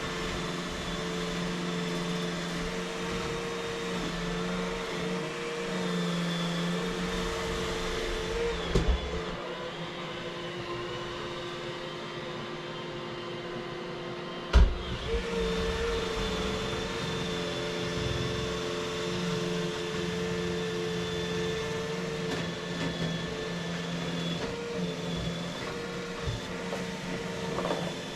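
Vacuum cleaner running with a steady motor hum, its tone shifting for a few seconds between two sharp knocks about 9 and 15 seconds in.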